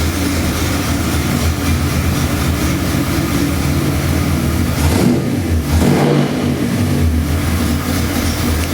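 A 427 cubic-inch small-block Chevy V8 crate engine with a big hydraulic roller cam running, being revved. The sound eases briefly about five seconds in, then picks up again.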